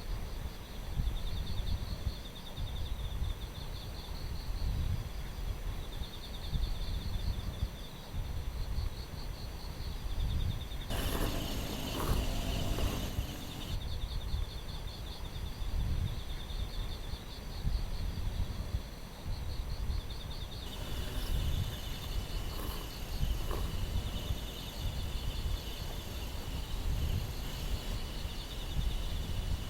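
Wind gusting over the microphone with a steady rumble, and insects trilling in a fast, even pulse. About eleven seconds in, a short sound with several held pitches rises over them, and from about two-thirds of the way through another insect adds a steady high whine.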